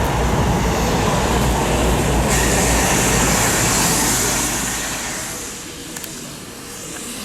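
A train passing close by: a loud low rumble with rushing noise that fades away from about five seconds in.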